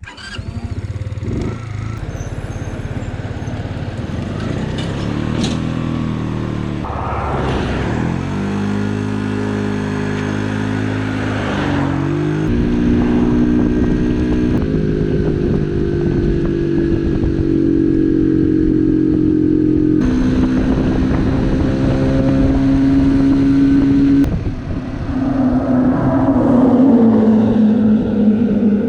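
Barton Volcano 50cc moped engine running under way, picking up revs about a quarter of the way in and again near the middle, then holding a steady drone, with other vehicles overtaking it.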